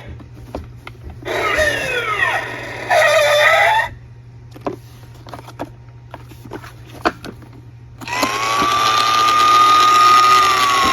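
Light clicks and taps of small toy cars. In between, about a second in, comes a couple of seconds of warbling, gliding tones. Near the end a siren wail rises and holds a high steady tone, then starts to fall.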